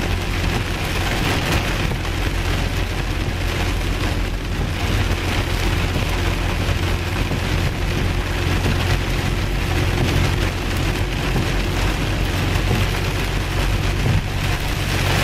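Heavy rain drumming on a car's roof and windscreen, heard from inside the car, over the steady low hum of the car's engine and road noise.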